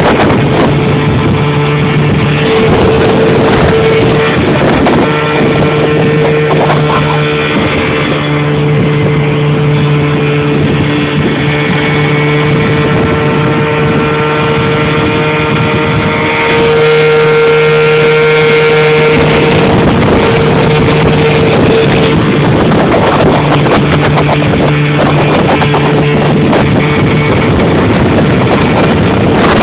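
1975 Evinrude 6 hp two-stroke outboard motor running steadily, pushing a small jon boat, mixed with rock music.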